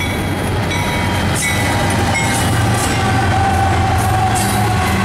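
Passing BNSF diesel-electric freight locomotive: a loud, steady low engine drone with the rumble of wheels on the rails, and a few brief clanks.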